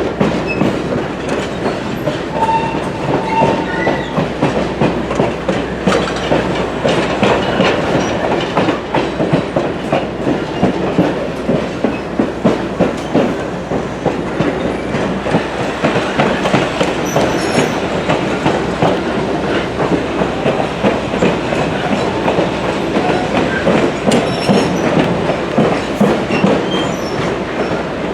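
Heritage excursion train rolling along the track, its wheels clattering and clicking steadily over the rail joints.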